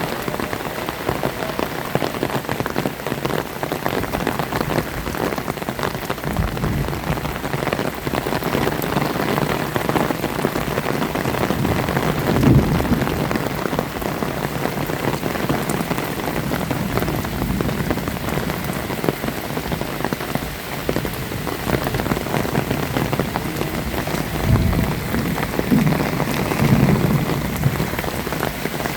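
Heavy rain falling steadily, dense drops pattering on surfaces, with a few brief low thumps about twelve seconds in and again near the end.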